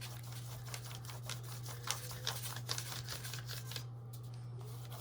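Short, irregular scratching strokes and small taps of a wax pastel crayon on paper, over a steady low hum.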